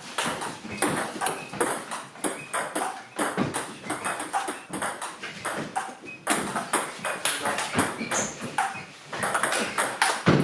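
A fast rally of a ball being struck back and forth: many sharp, ringing hits come several a second in an irregular rhythm, with a brief lull about nine seconds in.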